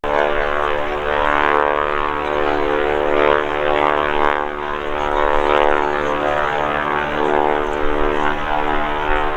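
Boeing Stearman wingwalking biplane's radial engine and propeller running at display power, a steady drone.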